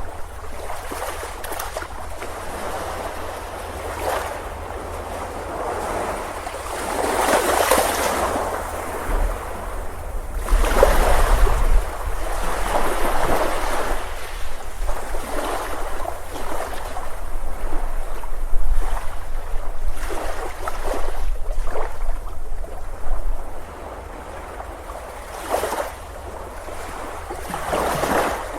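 Ocean waves breaking on a beach, the surf rising and falling in repeated surges of rushing water.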